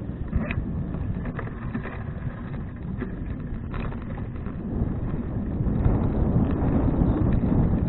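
Wind buffeting the microphone during a bicycle ride, with low road rumble and a few light clicks; it grows louder about five and a half seconds in.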